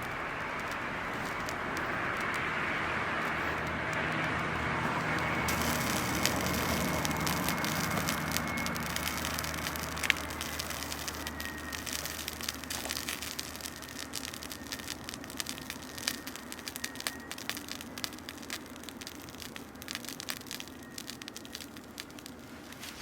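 Wood fire crackling and popping with many small sharp snaps, over a steady rushing noise that is strongest in the first several seconds and then fades.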